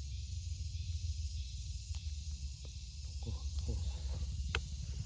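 Outdoor recording dominated by a low fluttering rumble and a steady high hiss, with a few short clicks, the sharpest about four and a half seconds in.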